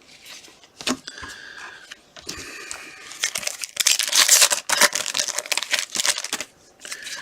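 Trading cards and their foil pack wrapper being handled: crinkling and rustling with quick clicks, busiest in the middle of the stretch.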